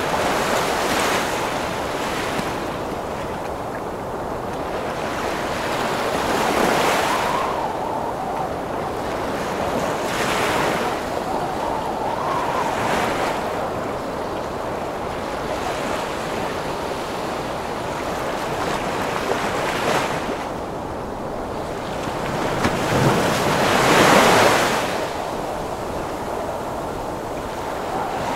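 Heavy ocean waves surging and breaking in strong wind: a constant rush of water and wind that swells every few seconds. The biggest surge comes near the end.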